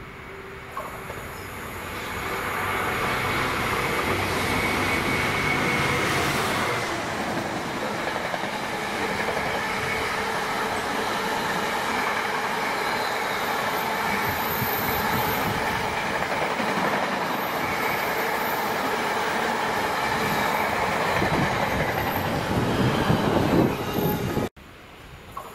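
Freightliner Class 66 diesel locomotive, with its two-stroke EMD V12, passes at speed hauling a long intermodal container train. The locomotive passes first, then the container wagons rumble past steadily with wheels clattering over the rail joints and some wheel squeal. The sound cuts off abruptly near the end.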